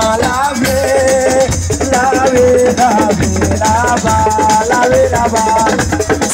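Live assiko band music: a rattle or shaker and drums keep a steady dense beat under a held, gliding vocal melody.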